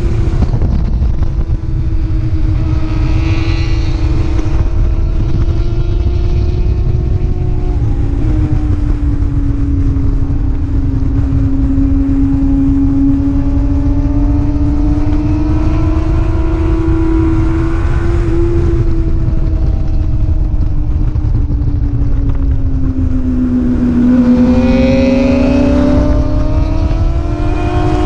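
Racing superbike engine running hard at speed, its pitch drifting slowly up and down with throttle and gear changes over a steady low rush of wind. Near the end the pitch drops low, then climbs again.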